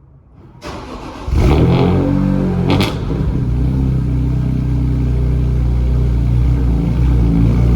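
BMW E46 M3's S54 3.2-litre straight-six cold-starting: the starter cranks briefly, the engine catches about a second in with a loud flare of revs, then settles into a steady idle.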